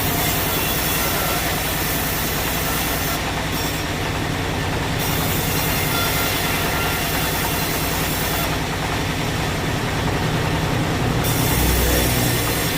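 Sawmill machinery running steadily, a continuous mechanical drone with a low hum, swelling into a louder low rumble near the end.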